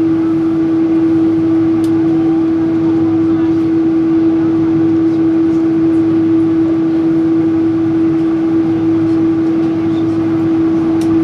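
Steady cabin noise inside a Boeing 777-300 on the ground after landing: one constant mid-pitched whine over an even low rumble and air hiss.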